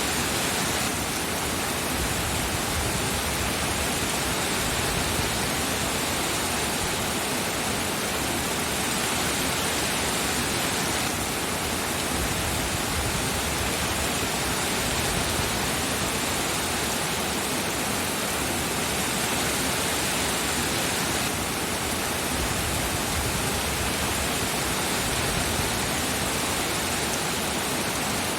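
Steady rain, an even hiss that does not change in level.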